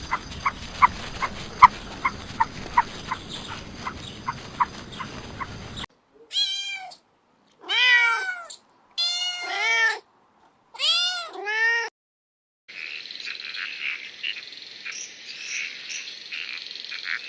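A cat meowing about five times, each meow rising and then falling in pitch. Before it comes a run of short, evenly repeated chirps, and after it a hissy chattering sound.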